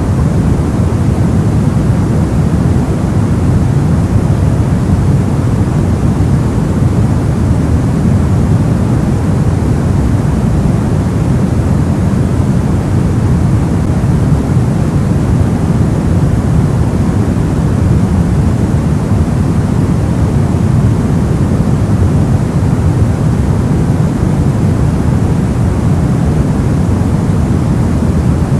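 Steady soft noise: an even, deep rushing hiss with most of its weight in the low end and no changes or events.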